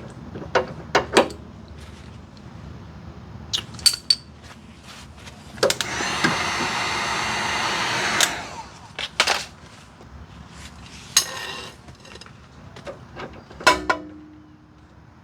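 Metal tools clinking and knocking on car suspension parts, with a power tool running steadily for about two and a half seconds in the middle, a whirring hiss.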